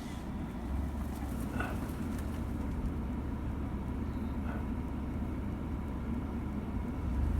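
A vehicle being driven slowly over farm ground, with a steady low engine and driving rumble.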